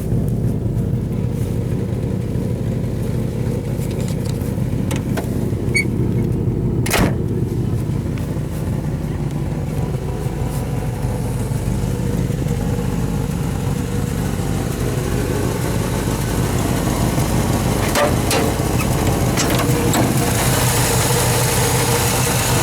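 1955 Plymouth Belvedere's original V-8 engine idling steadily, with a single sharp click about seven seconds in.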